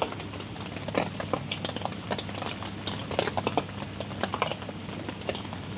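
Rain falling on a tent and its canopy: irregular drops ticking on the fabric, over a steady low hum from the tent's air conditioner unit.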